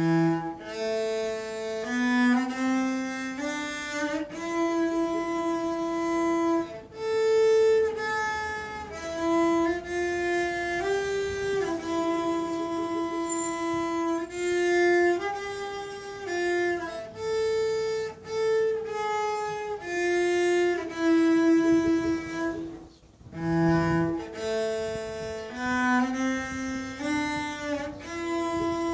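Solo violin playing a slow melody of held notes, one after another, with a short break about 23 seconds in.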